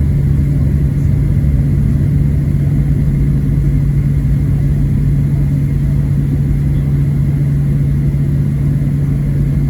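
Steady cabin drone of a Boeing 737-700 taxiing, its CFM56-7B engines running at low taxi thrust, a low hum with a faint high whine above it, heard from inside the cabin.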